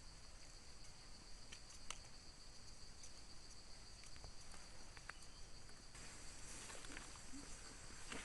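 Steady high-pitched insect drone in forest, with scattered small ticks and crackles of dry leaf litter; the rustling grows louder about six seconds in.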